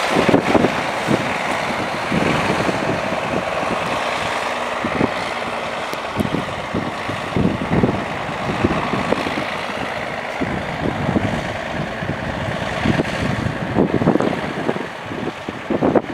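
M35A2 deuce-and-a-half truck's turbocharged multifuel inline-six engine running, under heavy, gusty wind buffeting on the microphone.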